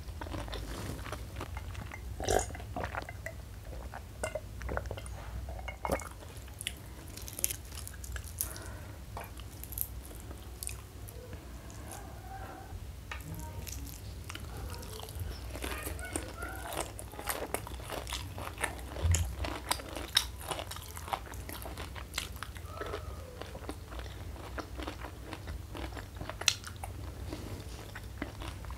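Close chewing and biting of crispy fried mushroom coated in sambal: a steady run of irregular crunches and wet mouth clicks, with a few louder bites along the way.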